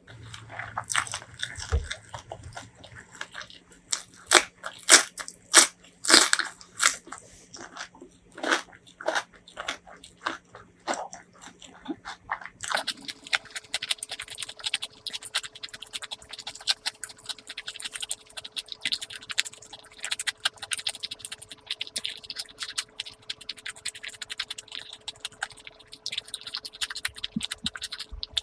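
Close-miked eating sounds: loud, separate crunchy bites and chewing, then about halfway through a change to quicker, softer chewing noises.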